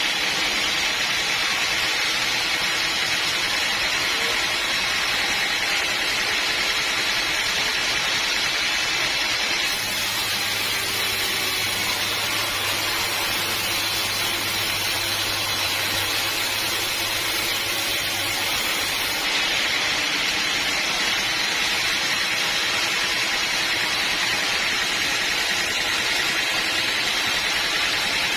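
Steady noise of sawmill machinery, most likely the bandsaw mill running through timber. The sound changes abruptly about ten seconds in and again about nineteen seconds in, with a low hum present only in the middle stretch.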